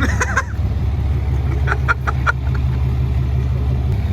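A vehicle engine idling with a steady low rumble. A few short high-pitched calls sound over it at the start and again around two seconds in.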